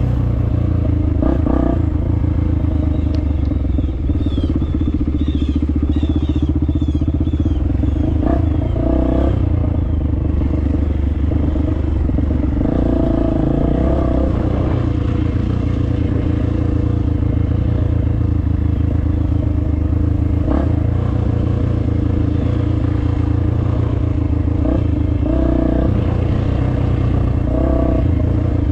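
Dirt bike engine running under load on a trail, its pitch rising and falling with the throttle, with rattles and clatter from the bike over rough ground.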